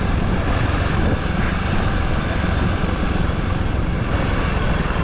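Honda CRF300L dirt bike's single-cylinder engine running steadily while being ridden.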